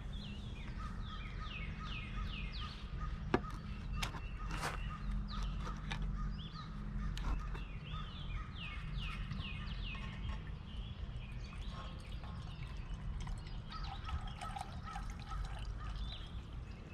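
Birds calling outdoors in runs of quick, repeated down-slurred chirps, a few seconds apart, over a steady low rumble, with a couple of sharp clicks about three and four and a half seconds in.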